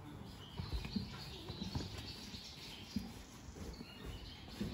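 Small birds chirping faintly in the background, with a few soft low thumps and rustles.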